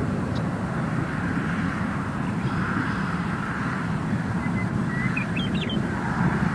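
Constant thunder-like roar of a supercell's hail shaft: hail coming down in the storm's core, heard from a distance as a steady low rumble. A few faint bird chirps come through about two-thirds of the way in.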